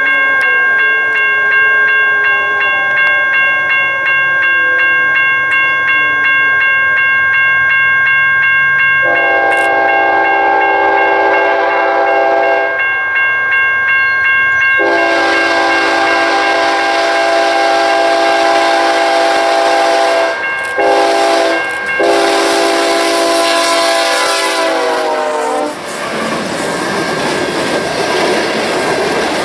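BNSF freight train approaching and passing: the lead diesel locomotive's air horn blows the grade-crossing signal of long, long, short, long, its pitch dropping as the locomotive goes by. Then the train's cars roll past with a steady rushing noise.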